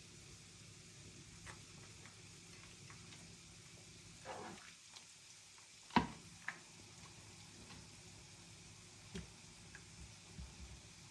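Faint kitchen work sounds: a steady low hiss with scattered light clicks, a short scrape about four seconds in, and a sharp knock of a utensil or dish about six seconds in, followed by a lighter one.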